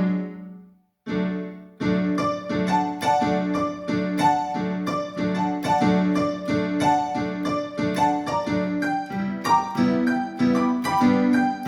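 Yamaha PSR-530 keyboard playing a piano-like voice. A chord at the start dies away, there is a short gap, and then a quick run of repeated notes follows with a steady pulse.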